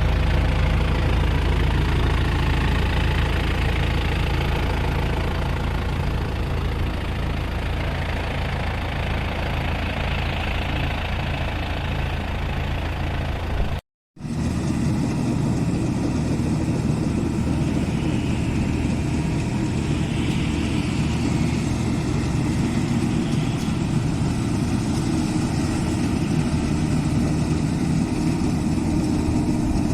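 Rice combine harvester's engine and machinery running steadily. The sound drops out for a moment about halfway through, then resumes with a deeper tone.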